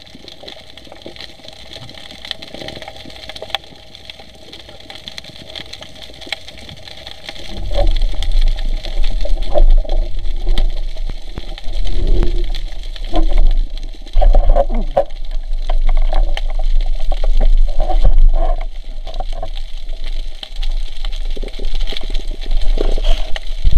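Water sloshing and rumbling against the camera, faint at first, then in loud irregular surges from about eight seconds in.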